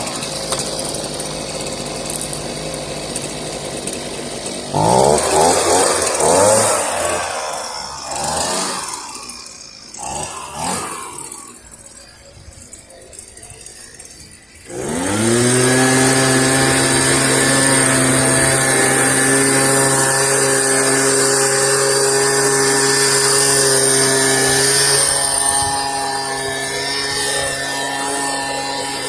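Gas leaf blower's small engine running, revved up hard for a few seconds and then throttled down until fairly quiet. About halfway through it winds back up in pitch and holds a steady high drone.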